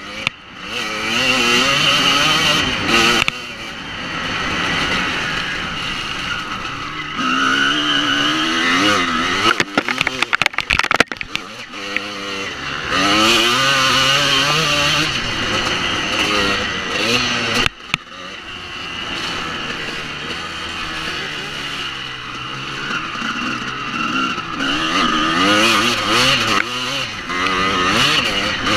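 Honda CR250 single-cylinder two-stroke motocross engine revving hard, its pitch climbing and dropping again and again as it is ridden through the gears, with sharp throttle chops. A run of sharp knocks comes about ten seconds in.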